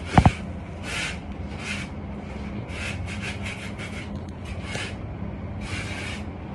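Hand tool scraping and rubbing over mortar in short repeated strokes, a few of them in quick succession about three seconds in. Two sharp knocks come just after the start.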